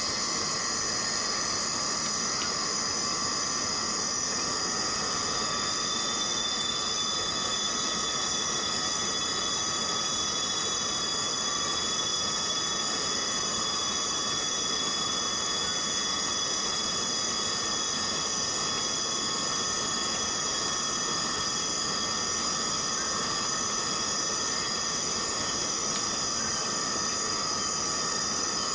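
Steady rain falling in tropical rainforest, an even hiss, with a continuous insect chorus of several high, unbroken drones layered over it. A thin whining tone comes in about five seconds in and fades out a few seconds before the end.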